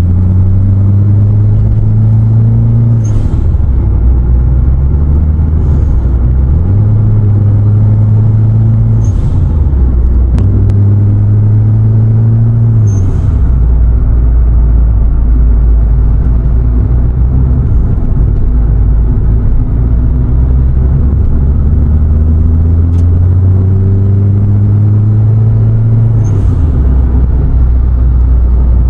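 Turbocharged engine running loud and steady, its revs rising and falling repeatedly. Each time the revs drop there is a short, high blow-off valve hiss, about five times in all.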